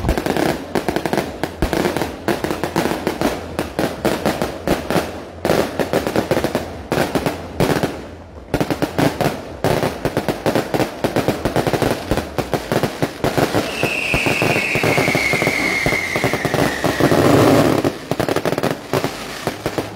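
Aerial fireworks display: a dense, continuous barrage of launches and bursting shells with crackle, many reports a second. About two-thirds of the way through, a falling whistle sounds over the bangs.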